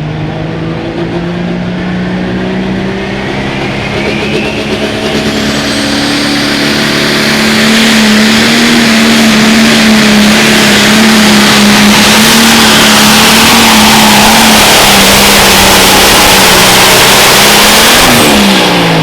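Turbocharged pulling tractor's engine running under full load down the track. A high turbo whistle rises as it spools up over the first few seconds, then the engine runs loud and steady for about ten seconds. Near the end the engine pitch drops sharply as it comes off the throttle.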